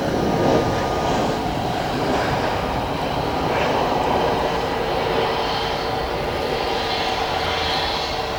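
Airliner engines running, a steady loud noise with a steady tone and a higher whine coming in about halfway through.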